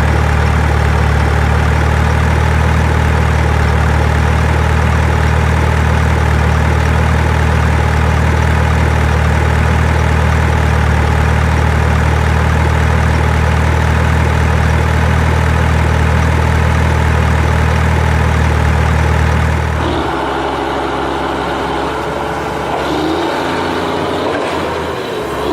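Heavy-equipment engine idling steadily with a deep, even hum. About twenty seconds in, it gives way to a different, lighter engine note.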